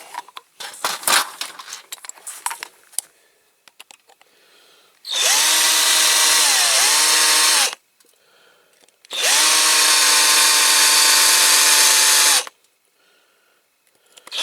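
Small electric drill drilling out the rivets of a diecast model. A few handling clicks come first, then two runs of the drill's whine, about two and a half and three seconds long. In the first run the pitch dips as the bit bites into the rivet.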